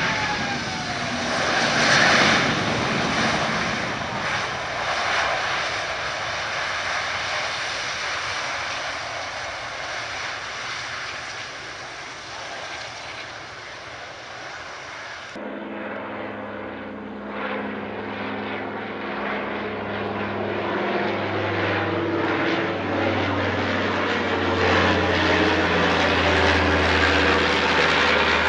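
Propeller airplane engines: an aircraft passes close by in the first seconds, its pitch falling as it goes. Then, after a cut about halfway, a piston-engine propeller plane is heard running with a steady, throbbing drone that grows louder near the end.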